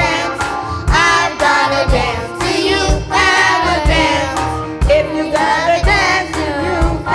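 Youth choir singing an upbeat gospel song with a band, a kick drum hitting about once a second under the voices.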